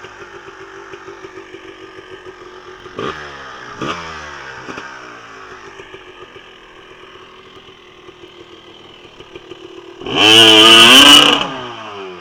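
Dirt bike engines running with the revs rising and falling, and a much louder hard rev from a nearby dirt bike about ten seconds in, lasting about a second and a half.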